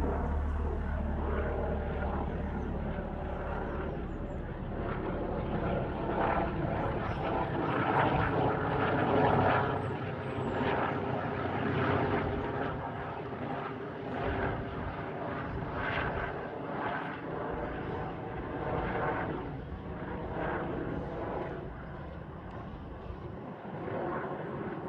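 Airbus H145 twin-turbine helicopter flying overhead: a steady rotor and turbine drone that swells to its loudest about eight to ten seconds in, then gradually fades as it moves away.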